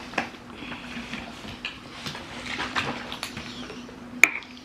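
Eating noises at a table: chewing and small clicks and knocks, with one sharp clack about four seconds in, over a faint steady hum.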